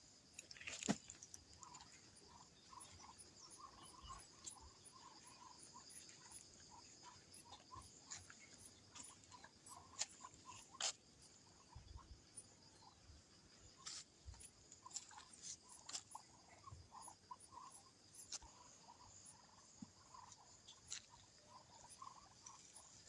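Faint, soft, short calls of Muscovy ducks repeating a few times a second, over a steady high insect buzz, with a few sharp clicks.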